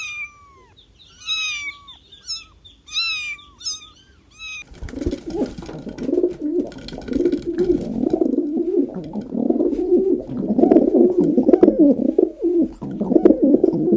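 Kitten meowing: several high meows that fall in pitch. About four and a half seconds in they stop, and a low, wavering cooing starts and runs on, growing louder.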